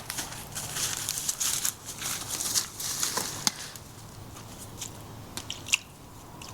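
Dry twigs and forest litter crunching and crackling in quick irregular snaps, dense for the first three seconds or so, then thinning to scattered snaps.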